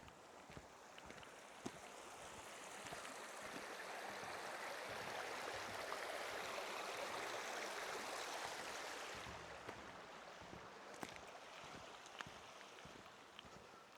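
Running water of a small stream, growing louder and then fading away after about nine seconds, with faint footsteps ticking throughout.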